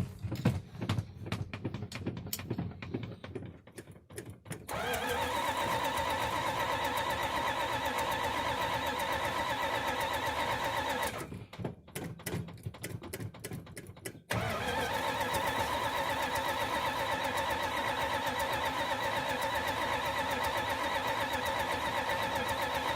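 Engine being started from cold and hard to keep running. It sputters and stumbles for a few seconds, catches about five seconds in and runs steadily, then dies. It sputters again, catches abruptly about fourteen seconds in and keeps running.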